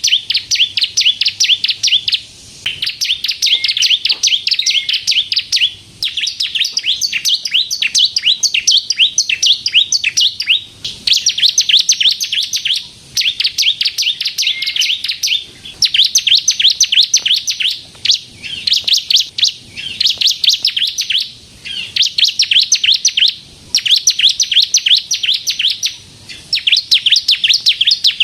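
Bar-winged prinia (ciblek kristal) singing in full voice. It gives repeated phrases of rapid, high, chattering notes, each lasting one to three seconds, with brief pauses between them.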